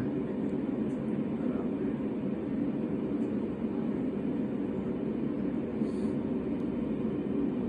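Steady low rumbling background noise in the room, even and unchanging, loud enough to be called too much noise.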